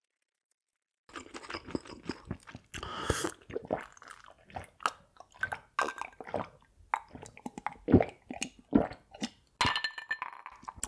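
Close-miked chewing and crunching of food in the mouth, a quick irregular run of sharp, wet clicks that starts about a second in.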